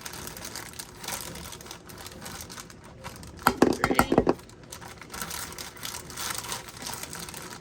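Plastic baggie crinkling and rustling as pie crust sticks are handled in it. About three and a half seconds in there is a quick run of several sharp knocks and rattles.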